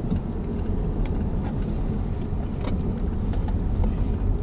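Steady low rumble of a car driving, with scattered light clicks and rattles.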